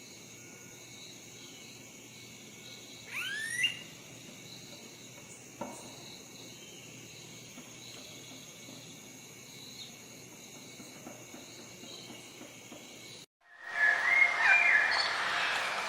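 Steady insect chorus with faintly pulsing high trills, and one bird call sweeping in pitch a little after three seconds in. Near the end the sound cuts out for a moment and gives way to louder bird chirping over a noisy background.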